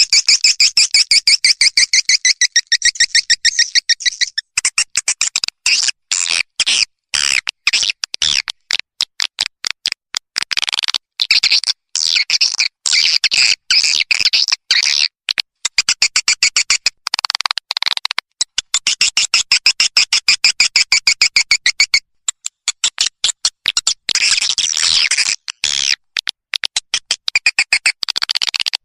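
Swiftlet lure sound: recorded white-nest swiftlet calls, a rapid, high-pitched twittering chatter of many chirps a second, coming in stretches broken by brief gaps.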